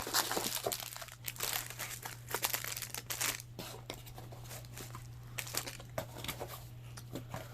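Packaging being handled and rummaged through: a run of irregular crinkling and rustling of paper and plastic wrap, over a steady low hum.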